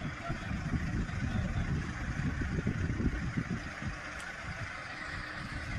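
A vehicle engine running with a low, uneven rumble.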